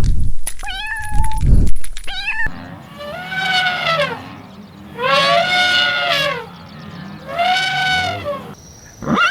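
Cats meowing: a couple of short meows, then, after an abrupt change, three long drawn-out meows that rise and fall in pitch.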